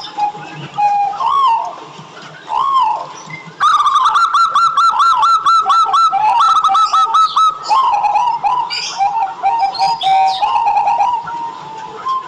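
Zebra doves (perkutut) cooing: a few soft arching coos, then about three and a half seconds in a sudden loud, rapid run of staccato notes lasting around four seconds, followed by looser cooing, with faint high chirps of small birds behind.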